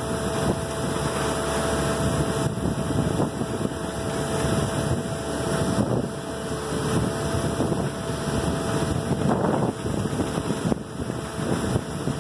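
A steady engine-like rumble with a faint steady whine, mixed with wind noise on the microphone.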